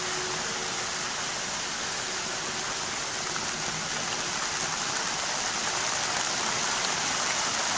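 Rain falling steadily, an even hiss that grows slightly louder toward the end as the downpour gets harder.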